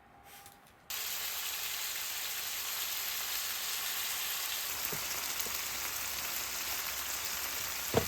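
Food frying with a steady sizzle that cuts in abruptly about a second in.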